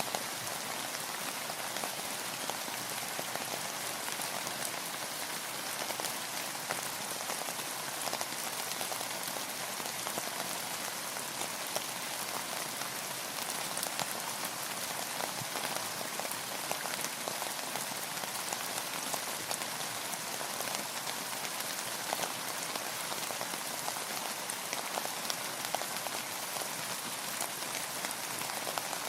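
Steady rain falling on a surface, an even hiss with many fine drop ticks throughout.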